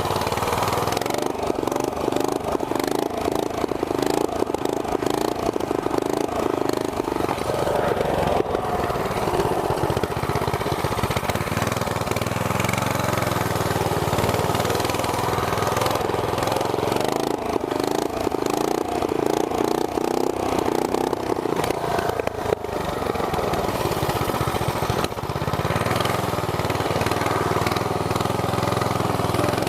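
Small single-cylinder gas engine running, its pitch rising and falling as the throttle changes, with a brief drop about two-thirds of the way through.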